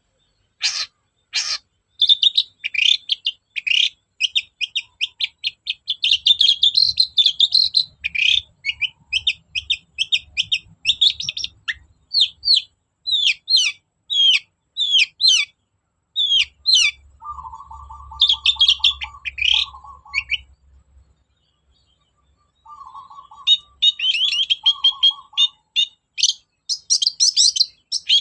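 Long-tailed shrike (cendet) singing: harsh rasping calls at first, then fast chattering trills and a run of separate sharp down-slurred notes. In the second half a lower buzzing trill comes twice, and after a short pause the chattering resumes near the end.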